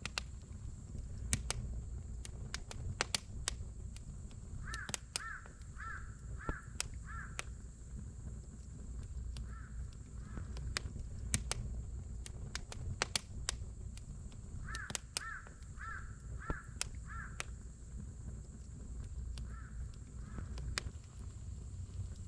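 Wood campfire crackling and popping with irregular sharp snaps over a low steady rumble. A bird calls twice in the same pattern, a run of about five quick notes followed by two spaced ones.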